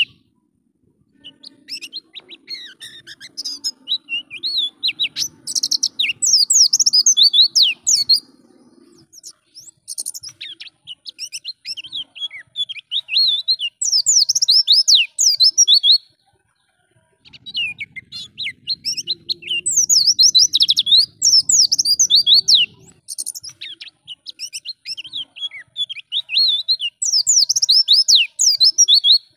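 White-eye (pleci) singing: long runs of fast, high twittering song, broken by short pauses about a second in and again around sixteen seconds in. A faint low hum sits under parts of it.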